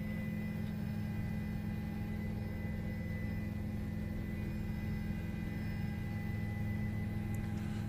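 Steady electrical hum, with several constant tones, low and high, held without change.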